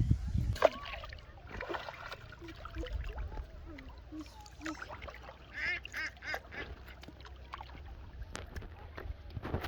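A bird calling outdoors: a quick run of four or five short, repeated calls about six seconds in, with a few fainter calls around it. A low rumble sits under the first half-second.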